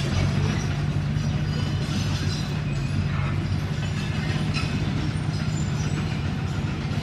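Komatsu D21P crawler bulldozer's diesel engine running steadily, with its steel tracks clanking and squeaking.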